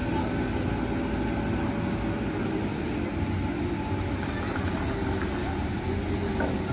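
Diesel engine of a wheel loader running steadily, its note shifting slightly near the end.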